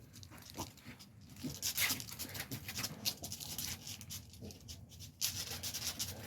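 American Staffordshire terrier making a few short, scattered vocal sounds amid rustling movement.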